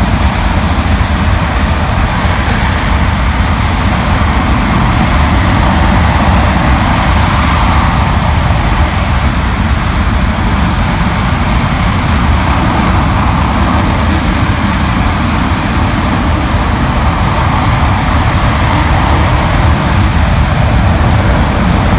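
RS-25 liquid-hydrogen/liquid-oxygen rocket engine firing on a test stand: a loud, steady rumble of noise, heaviest in the low end, that holds unchanged throughout.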